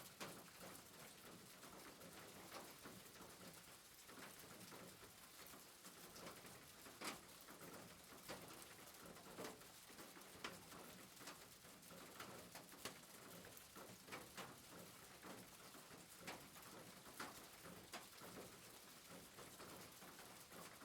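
Faint soft rain: a steady hiss with scattered, irregular ticks.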